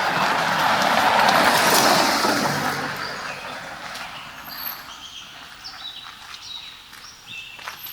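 A loud rushing noise, like a vehicle passing, fades away over the first three seconds. Small birds then chirp in short high whistled notes, several in quick succession, over a quiet background.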